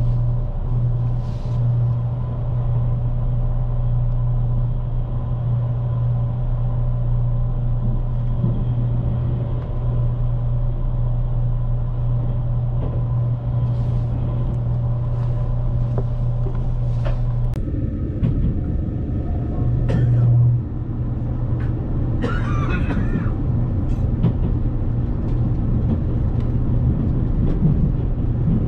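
A JR Kyushu 787 series limited express train running, heard from inside the passenger car: a steady low hum with rumble. About 17 seconds in the rumble turns rougher, and a brief high wavering sound follows about 22 seconds in.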